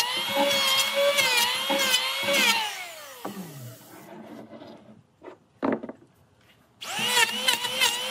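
Handheld electric power tool cutting wood, its motor whine wavering with the load, with chattering clicks. About a third of the way in it is released and winds down with a falling pitch, leaving near silence. Near the end it is switched on again, the pitch rising as it speeds up, and it bites back into the wood.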